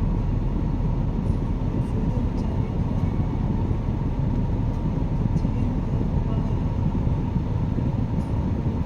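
BMW X1 engine idling steadily while the car runs its electronic engine-oil level measurement, a low, even rumble.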